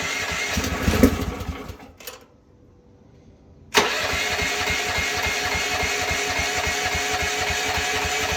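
Small gasoline engine of a Rippa Mule Trac mini excavator, on full choke, runs for about two seconds and fades out. After a short pause it starts suddenly and runs steadily. It is starting rough on a machine that still has air bubbles in its fuel line.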